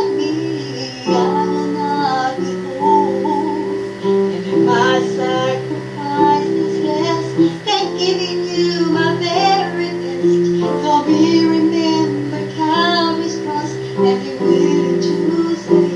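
A recorded song: a high voice sings a melody over a steady instrumental backing.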